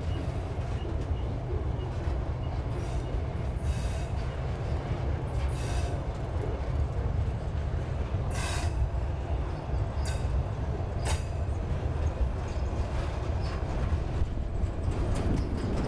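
Freight train wagons rolling past at close range: a steady low rumble of steel wheels on the rails, broken by several short metallic wheel squeals, the loudest about eight and a half seconds in.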